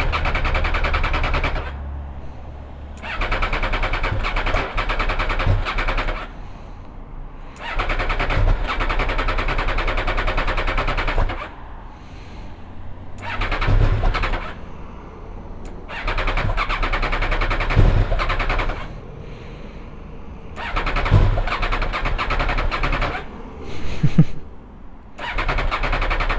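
MV Agusta Brutale 675's inline three-cylinder engine running just after a cold start. Its level swells and drops back every few seconds.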